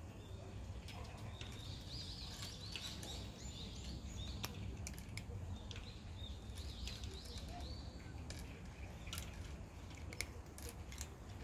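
A small bird chirping in two short phrases of quick gliding high notes, over a steady low outdoor rumble. Sharp crunching clicks come thicker near the end, as a cat chews dry kibble.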